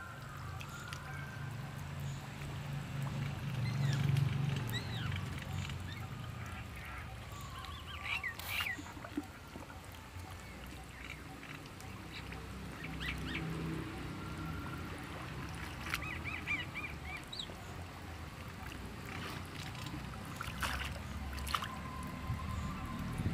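Birds calling in short chirps, over a low steady rumble.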